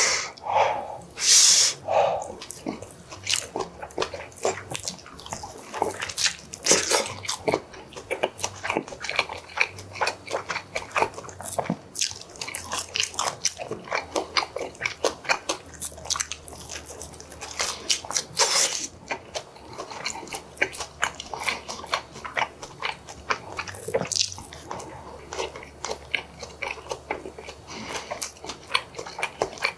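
Close-miked chewing of rice and braised pork kimchi stew, a dense run of short wet mouth clicks several times a second with a few louder bursts.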